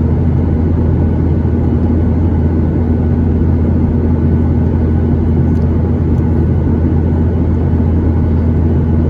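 Steady jet cabin drone inside a Boeing 737-800 in flight: the CFM56 engines and airflow make a constant low rumble with a steady hum running through it.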